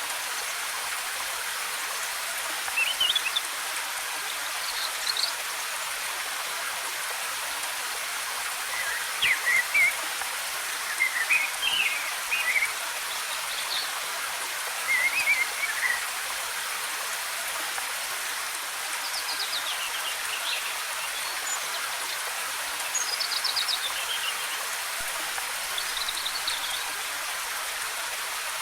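Steady rush of a waterfall's cascading water, with songbirds chirping in short high phrases every few seconds.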